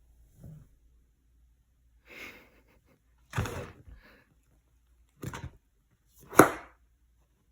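A cat at play, making a handful of short scuffling noises at uneven gaps, the loudest about six seconds in.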